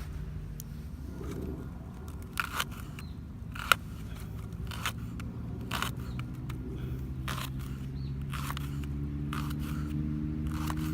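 Campfire crackling with irregular sharp pops of burning wood, the loudest about four seconds in. Under it runs a low steady drone that slowly rises in pitch in the second half.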